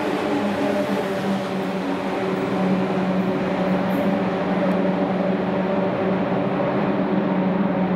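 Eurostar Class 373 electric high-speed train running through: rushing wheel and air noise over a steady electric hum. The rushing thins out about halfway through as the train draws away.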